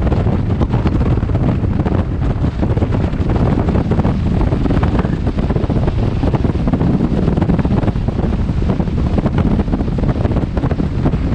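Loud, steady wind noise buffeting a helmet-mounted camera's microphone on a motorcycle under way.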